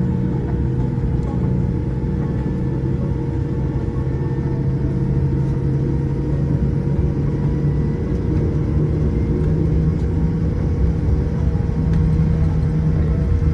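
Steady low rumble and hum inside the cabin of a Boeing 787-8 airliner taxiing after landing, with a constant tone from the engines and cabin air running under it.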